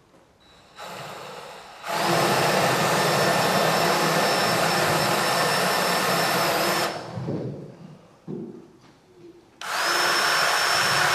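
Electric drill boring a hole of about 3 mm through wood for the top's string, in two runs: a steady motor whine for about five seconds that stops, then starts again near the end.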